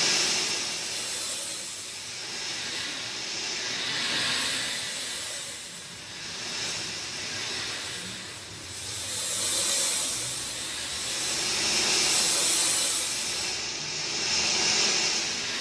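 Rain falling: a dense hiss with no distinct drops or tones, swelling and easing every few seconds.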